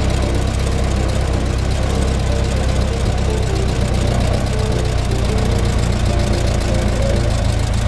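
1924 Ford Model T's four-cylinder flathead engine running steadily as the car drives along, heard from inside the car.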